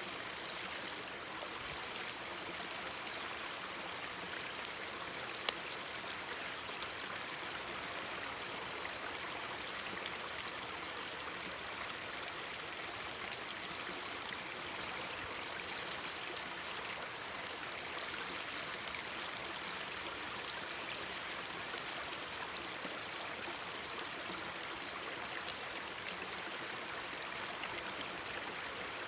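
Mountain stream babbling steadily, with a few sharp pops from a crackling wood campfire.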